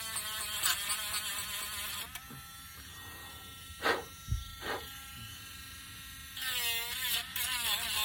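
Small electric sanding tool's motor running with a buzzing whine that wavers in pitch as it is pressed to the wood. It stops about two seconds in, two sharp knocks follow near the middle, and the motor starts again near the end.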